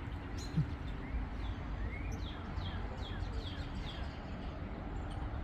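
Birds chirping over a steady low rumble, with a quick run of short, falling chirps a little past the middle. A brief low thump comes about half a second in.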